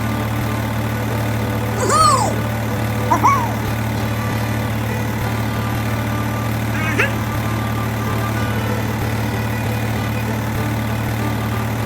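A small engine running steadily at idle, a constant low hum, with a few short high calls about two, three and seven seconds in.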